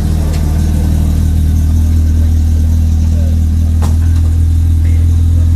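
Renault Clio 182 Trophy's 2.0-litre four-cylinder engine idling steadily just after being started, with a single sharp click about four seconds in.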